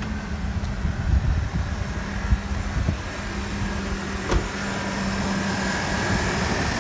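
2010 Chevrolet Suburban's V8 engine idling steadily just after being started, with a single click about four seconds in.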